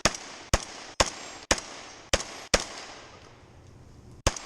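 Rock Island Armory VR-80 semi-automatic 12-gauge shotgun firing in rapid succession: six shots about two a second, then a pause of nearly two seconds and one more shot near the end.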